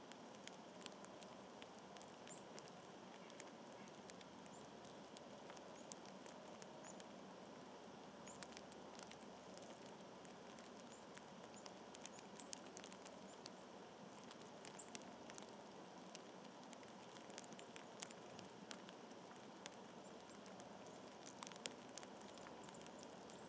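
Faint outdoor background hiss with scattered, irregular small ticks and light pattering throughout.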